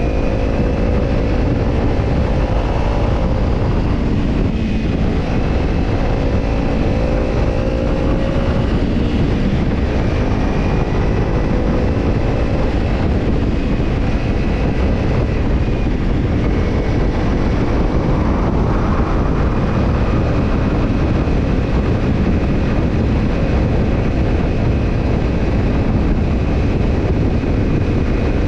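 Kawasaki Ninja 250's parallel-twin engine running through a BEET NASSERT Evolution Type II titanium slip-on muffler while the bike is ridden, its note shifting a little in pitch, under a heavy steady rushing noise.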